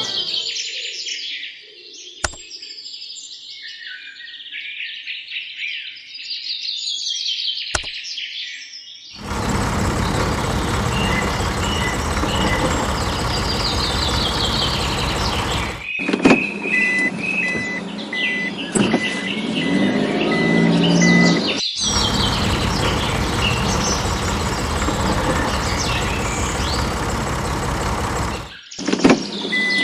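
Birds chirping and twittering throughout. About a third of the way in, a loud, steady vehicle-like rumble joins them and stops and starts abruptly several times. In the middle, a row of short, evenly spaced beeps sounds at one pitch.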